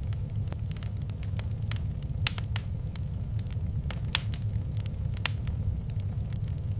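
Wood fire in a fireplace crackling, with irregular sharp pops over a steady low rumble; three louder pops stand out around two, four and five seconds in.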